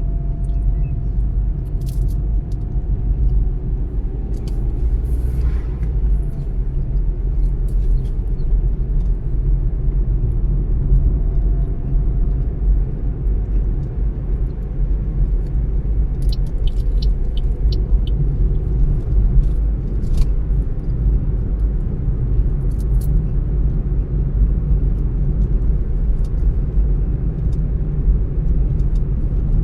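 Car driving at a steady speed: continuous low road and engine rumble, with a faint tone drifting slowly in pitch and a few scattered light ticks.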